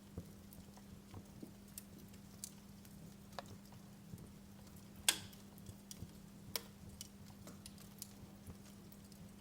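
Wood fire crackling in a fireplace: faint, irregular snaps and pops, the loudest pop about five seconds in, over a steady low hum.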